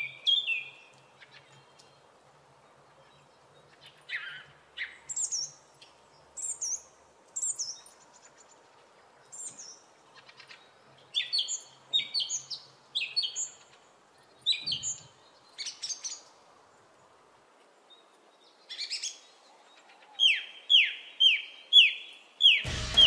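Small birds chirping: scattered short, high calls, many sliding quickly down in pitch, with a run of four falling chirps near the end. Music with a drum beat cuts in just before the end.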